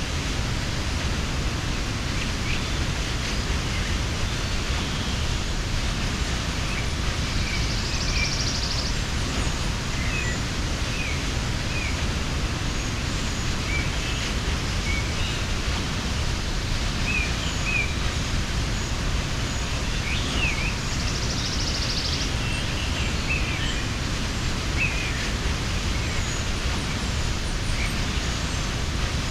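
Waterfall rushing steadily, with small birds chirping repeatedly over it and two short buzzy trills.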